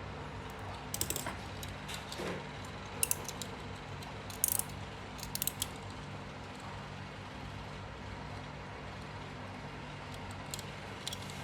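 Irregular small metallic clicks and clinks from the antique clock movement and its metal parts being handled, in a few quick clusters, over a steady low background hum.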